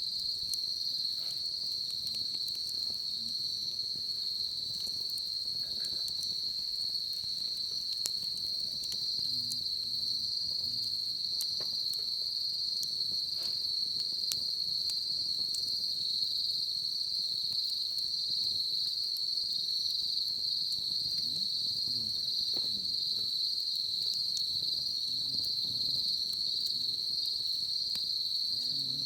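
Continuous high-pitched trill of insects, steady and unbroken, with the faint scattered crackle of a wood fire.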